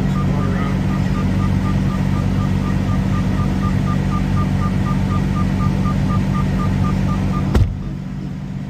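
Truck engine idling with a rapid electronic warning beep, about four beeps a second. A sharp knock near the end cuts the beeping off, and the engine sound drops.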